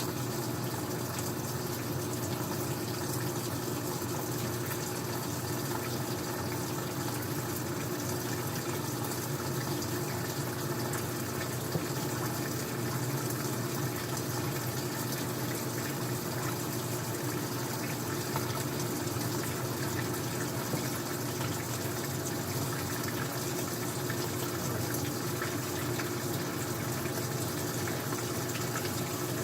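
Old-style front-loading washing machine with water rushing through it in a steady stream over a low machine hum, unchanging throughout.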